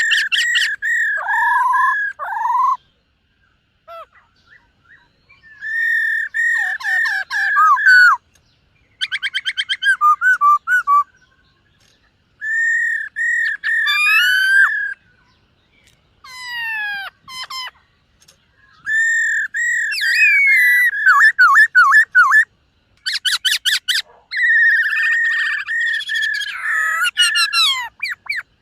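Black-throated laughingthrush singing: loud whistled phrases mixed with fast rattling trills and rising and falling notes, in bursts of a few seconds with short pauses between.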